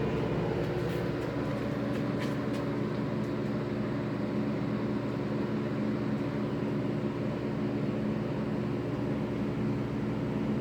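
Air conditioner and heat unit running in cool mode: its compressor, just kicked on by the turned-down thermostat, runs together with the inside and outside fans as a steady hum with several steady low tones.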